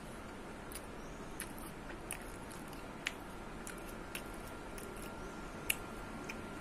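Person biting and chewing a firm frozen Potong ice-cream bar: scattered short, soft clicks over a low steady hiss, the sharpest one near the end.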